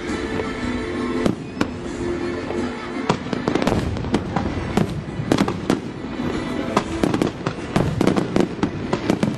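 Fireworks display going off, with dense rapid cracks and bangs from about three seconds in. Music with held notes plays under it, and is clearest in the first few seconds.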